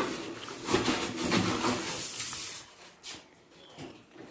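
Styrofoam packing rubbing and squeaking as it is pulled out from under a microwave in its cardboard box. The rustling runs for about the first two and a half seconds, then goes quieter, with a light knock about three seconds in.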